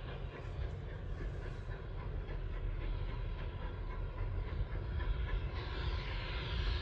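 Steam-hauled train running: a steady low rumble with faint, evenly spaced clicks, and a hiss that grows louder in the last second or so.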